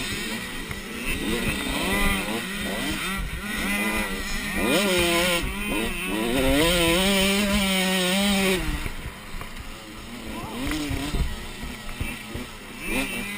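Motocross bike engine revving up and down, its pitch climbing and falling again and again. It is loudest and highest from about five to eight seconds in, then drops off abruptly to a lower, quieter running.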